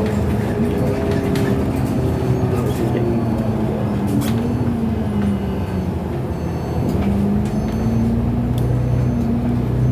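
City bus engine and drivetrain running while the bus drives, heard inside the passenger cabin. The engine pitch drifts up and down with the bus's speed, over a low road rumble and a few short rattles.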